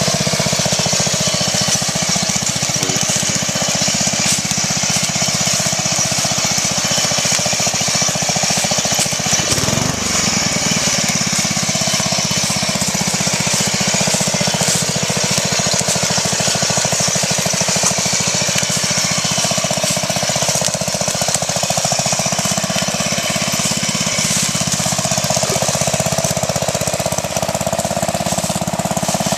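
Riding lawn mower's small gasoline engine running loud and steady, its speed dipping and coming back up about ten seconds in.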